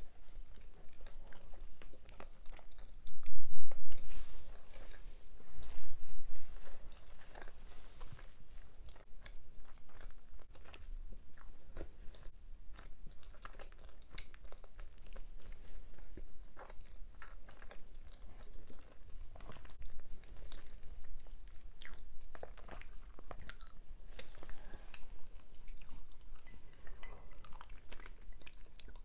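A person chewing food close to the microphone, with wet mouth clicks and some crunchy bites. It gets louder twice, about three to four seconds in and again around six seconds in.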